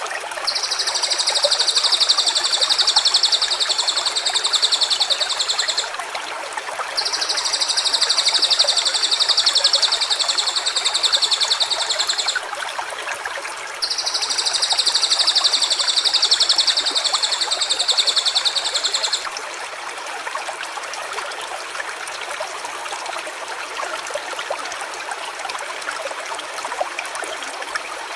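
A stream runs throughout. Over the first two-thirds a high, even, buzzing call sounds three times, each lasting about five seconds with short gaps between, and it is louder than the water.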